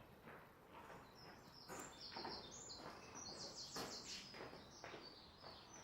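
Faint songbird singing: quick, high, rapidly repeated notes, strongest from about two to four seconds in.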